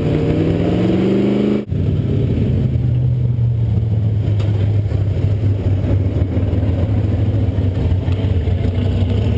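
Supercharged 383 Chevrolet small-block V8 with a BDS 8-71 blower, running on alcohol, revving up for the first second and a half. After a brief break it runs steadily at low revs.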